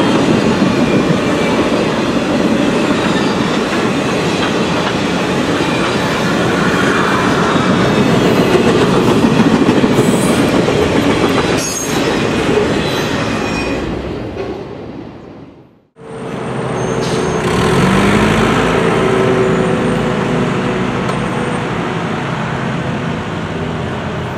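Circus train passenger cars rolling past on the rails, a steady loud rumble of wheels on track that fades away about fourteen to sixteen seconds in. Then, after a cut, a heavy road vehicle's engine running and revving up briefly, its note rising.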